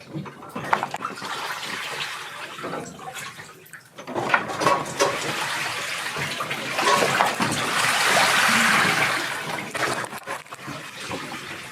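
Water rushing and splashing with a few knocks, swelling to a loud surge from about seven to nine and a half seconds in, then easing off.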